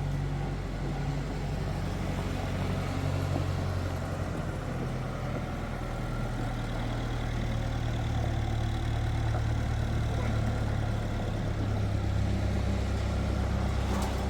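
A motor or engine running steadily with a low hum, its pitch shifting slightly about halfway through.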